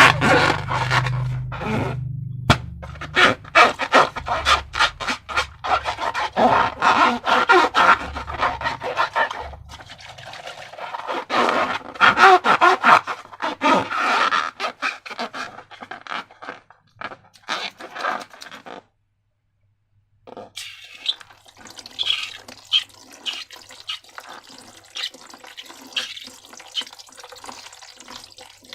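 Slime being squished and worked by hand: a dense run of wet, crackly clicks and squelches that comes and goes in bursts, breaking off for a moment about nineteen seconds in.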